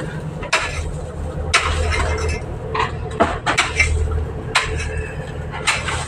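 Sharp knocks repeating about once a second, with a quick run of three near the middle, over a steady low engine hum.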